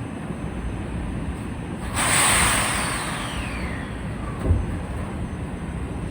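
A sudden hiss of air from a commuter train's air brakes starts about two seconds in and fades over a second or so, with a whine falling in pitch beneath it. A steady train rumble runs underneath, and a short low thump comes about halfway through.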